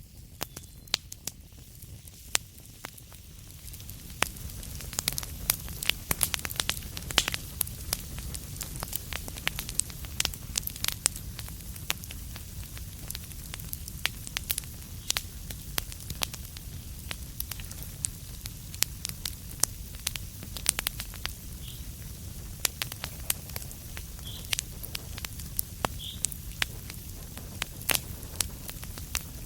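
Wood fire crackling in a fireplace: irregular sharp pops and snaps over a steady low rumble, getting busier and a little louder about four seconds in.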